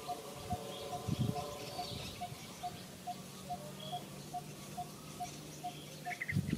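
Birds calling: a soft note repeated evenly about two to three times a second, with faint higher chirps, over a low steady hum.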